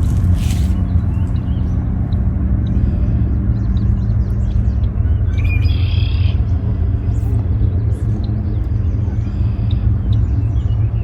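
A steady low rumble throughout, with small birds chirping on and off above it. The clearest run of chirps comes a little past the middle.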